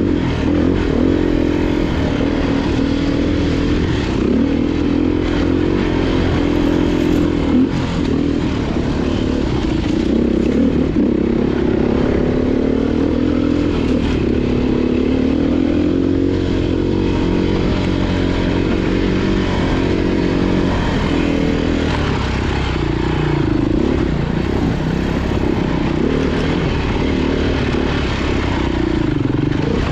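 Off-road motorcycle engine running under load, its revs rising and falling continuously as the throttle is worked over rough ground, with some rattling.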